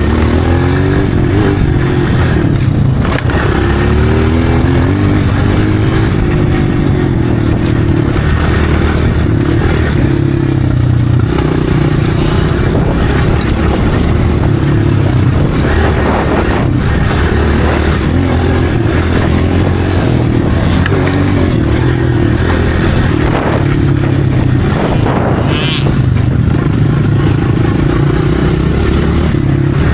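Dirt bike engine running and revving, its pitch sweeping upward several times in the first few seconds as it accelerates, then holding a steady loud drone.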